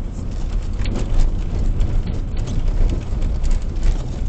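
Car driving, heard from inside the vehicle: a steady low rumble of engine and tyre noise, with scattered small clicks and knocks.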